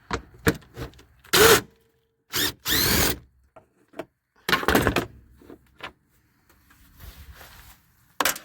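Socket on a long extension turning a fan shroud bolt loose: four short bursts of scraping and squeaking, the loudest about a second and a half in, with small metal knocks between them.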